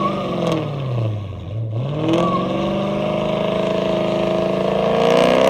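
Chrysler SRT's Hemi V8 revving: the engine note drops for about a second and a half, then climbs steadily for several seconds as it accelerates hard.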